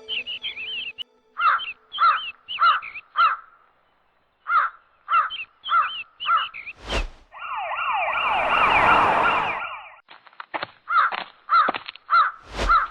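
Crows cawing in quick runs of three or four calls, a cartoon sound effect. About seven seconds in comes a short sharp hit, then an ambulance siren wailing rapidly up and down for about three seconds; another sharp hit comes near the end.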